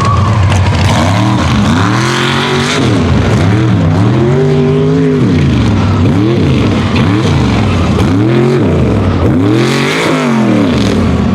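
Unlimited-class mega truck engine revving hard up and down, about once a second, with one longer pull held for a second or so near the middle, as the truck works through the course.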